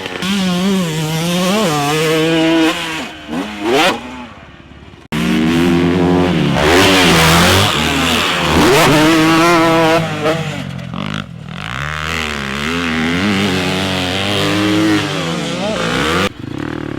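Dirt bike engines revving hard, the pitch climbing and falling again and again through the gears. About five seconds in the sound drops away and comes back abruptly loud.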